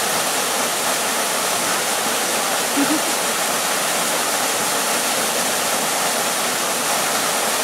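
Steady rush of a waterfall, an even wash of falling-water noise that holds at one level throughout, with a brief faint voice about three seconds in.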